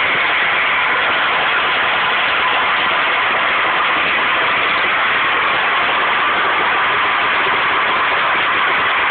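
Gas well blowout: an open gas fountain jetting uncontrolled from the well, a loud, steady rushing hiss that does not change.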